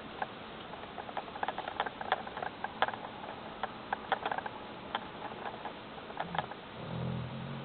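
A sleeping pit bull snoring: one low snoring breath begins about seven seconds in. Before it comes a scatter of faint, irregular clicks.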